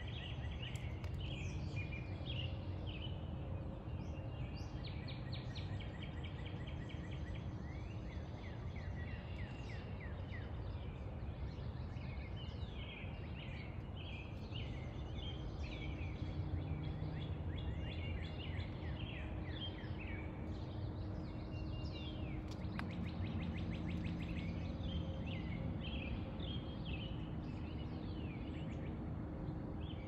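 Songbirds chirping and singing throughout, many short repeated calls and trills, over a steady low outdoor rumble.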